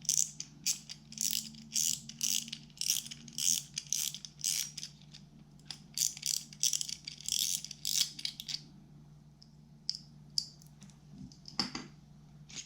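Small metal parts of an Abu Garcia SX10 spinning reel clicking and rattling as the reel is taken apart by hand: a dense run of clicks for about nine seconds, then a few scattered clicks.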